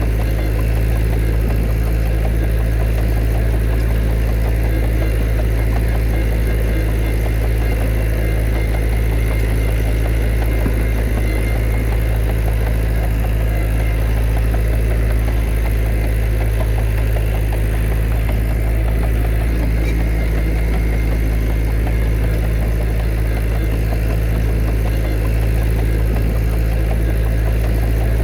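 Heavy diesel earthmoving engine running steadily, mostly low in pitch, with no change in revs.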